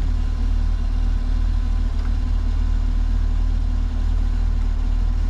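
The 6.2-litre V8 of a 2021 Camaro 2SS idling steadily.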